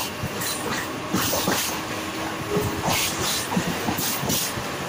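Mumbai suburban electric local train running along the track, heard from inside the coach. The wheels clatter over rail joints in irregular knocks and rattles over a steady running noise.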